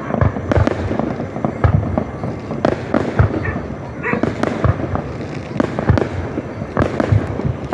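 Aerial fireworks display: a dense, irregular string of bangs and crackling pops, several a second, overlapping one another.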